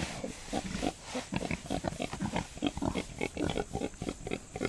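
American Guinea Hog sow grunting in a quick, steady run of short grunts, several a second.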